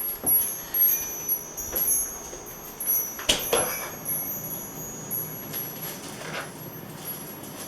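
Wind chimes tinkling in the wind, with a few light knocks, the sharpest about three seconds in.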